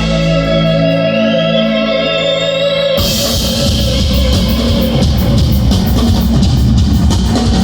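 Live progressive-rock band playing: a held electric guitar chord with a note bent upward over it, then, about three seconds in, a sudden change to loud full-band playing with drums and cymbals.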